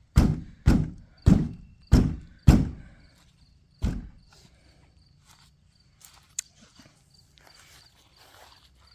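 Heavy footsteps, about five thudding steps in the first two and a half seconds and one more near four seconds. Faint crickets chirr steadily behind them.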